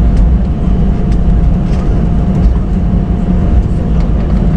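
Inside a jet airliner's cabin during departure: a loud, steady low rumble of the engines and airframe, with a thin steady hum above it and faint scattered rattles.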